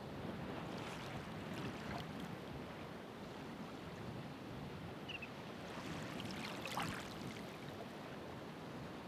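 Ocean waves washing on the shore: a steady rush of surf that swells twice, about two seconds in and more strongly near seven seconds, as waves break and fizz out.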